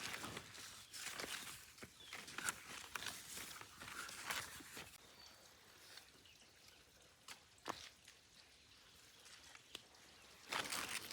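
Irregular rustling and crinkling of leafy plants being handled, with scattered light snaps and clicks and one sharper click about three quarters of the way through.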